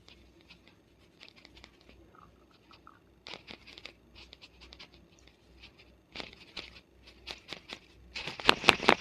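Fingers and fingernails scratching and rustling through hair and scalp in short scratchy bursts. The last second is the loudest, a dense run of sharp crackles.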